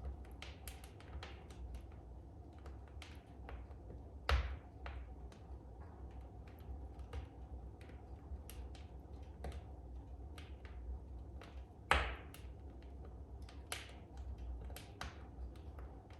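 Wood fire crackling in a fireplace: irregular small snaps over a low steady rumble, with two louder pops, about four seconds in and again about twelve seconds in.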